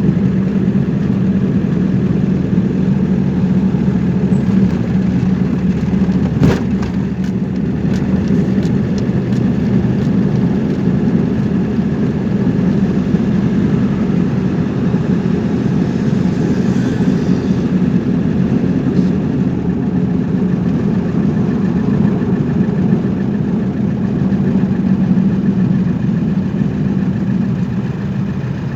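Car engine and road noise while driving: a steady low drone, with a brief click about six seconds in.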